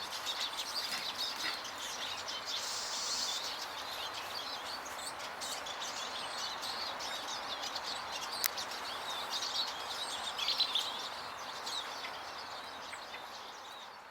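Many small garden songbirds at feeders twittering and chirping, with rapid overlapping short calls, over a steady background hiss. A single sharp click partway through.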